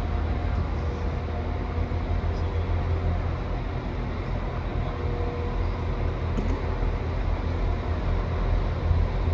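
Steady low rumble of a train at a station platform, with a faint steady hum over it.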